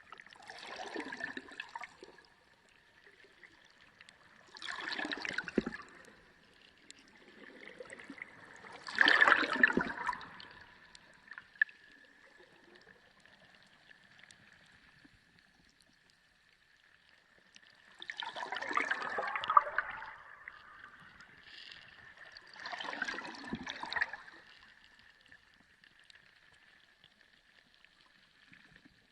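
Sea water recorded underwater, swelling in five noisy bursts a few seconds apart, each lasting one to two seconds, over a faint steady high tone.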